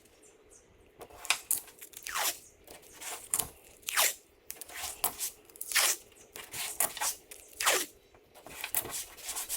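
A series of short, irregular crunching scrapes, roughly one or two a second, from a hand tool worked against a hard surface.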